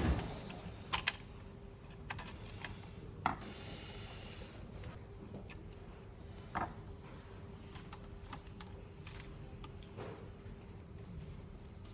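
Irregular sharp clicks and taps of parts and tools being handled while a blood gas analyzer is taken apart, over a faint steady hum.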